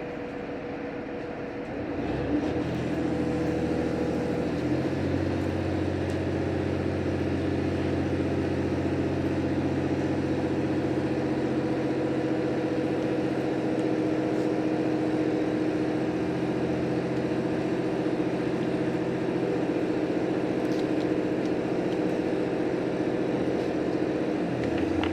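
JR Hokkaido H100 diesel-electric railcar pulling away. Its diesel engine comes up about two seconds in, steps up again about five seconds in, then runs steadily under load.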